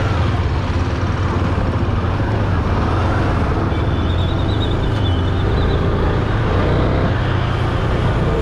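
Motor vehicle engine running steadily, with road traffic noise.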